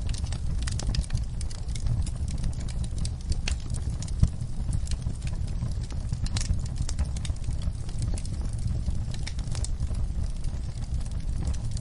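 Wood fire burning in a fireplace: a steady low rumble with frequent sharp crackles and pops, one louder pop about four seconds in.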